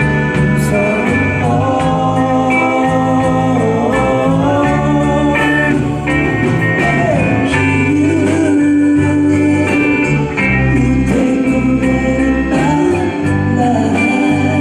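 Band music: a singer holding long wavering notes over guitar and a steady bass line.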